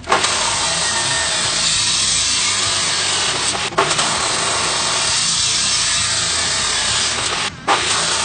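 A power tool cutting or grinding under load: a steady, harsh noise that starts abruptly and breaks off briefly twice.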